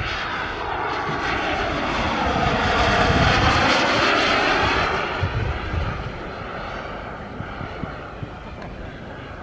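Turbine engine of a large scale RC model Aermacchi MB-339 jet flying past. The rush grows louder, peaks about three and a half seconds in, then fades away.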